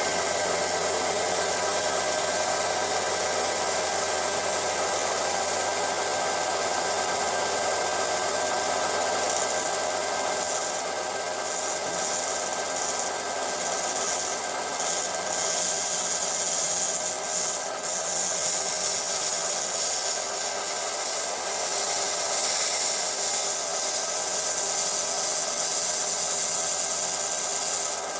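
Scheppach BTS700 belt and disc sander running steadily with a hum and a whir, with a rasping rub of wood against the abrasive that comes and goes through the middle.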